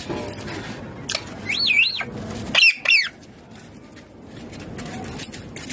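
Rose-ringed (green ringneck) parakeet calling: a wavering high-pitched warble about a second and a half in, then two sharp shrill calls about a second later.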